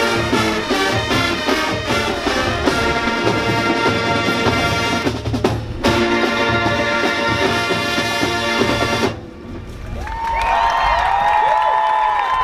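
High school marching band, brass and drums, playing the final bars of its show and stopping sharply about nine seconds in. The crowd then starts cheering, with rising and falling whistles.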